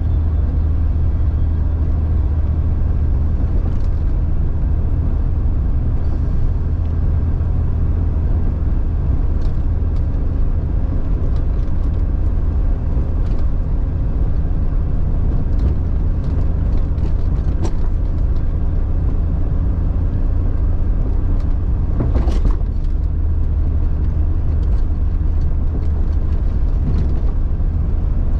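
1999 Jeep XJ's engine running steadily as it drives a snowy off-road trail, a constant low drone, with scattered light clicks and rattles and one louder knock about 22 seconds in.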